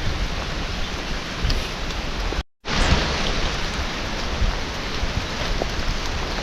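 Steady rain hissing, with a low rumble underneath; the sound cuts out completely for a split second about two and a half seconds in.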